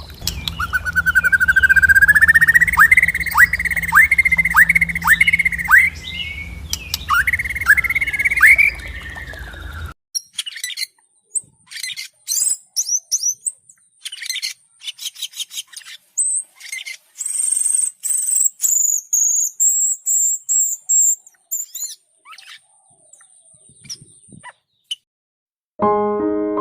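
Birds calling, in two separately recorded stretches. First comes a long rising whistle and then a run of quick downward-sliding whistled notes over a low hum. After an abrupt cut, there are high, sharp chips and twitters with silent gaps between them. A piano comes in near the end.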